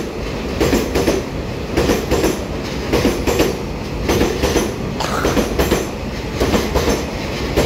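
EMU3000 twelve-car electric multiple unit running along the station platform: a steady rolling rumble with clusters of wheel clacks over the rail joints about once a second.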